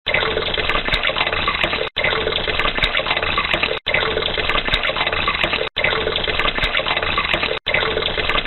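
Water running or pouring in a steady rush, broken by four brief cuts about every two seconds.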